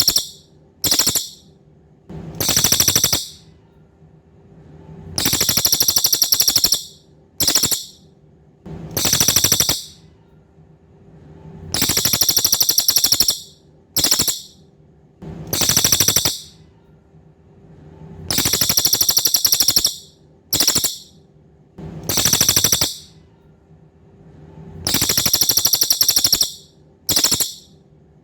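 Cililin songbird singing a rapid, very high, buzzy trill in repeated phrases: a long trill, a brief one and another long one, the pattern coming round about every six to seven seconds. A faint steady low hum runs underneath.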